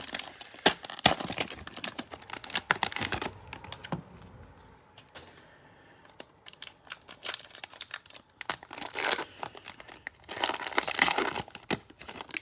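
Cellophane pack wrapper crinkling and tearing as a trading-card cello pack is opened and handled, in two spells of crackling with a quieter stretch in between.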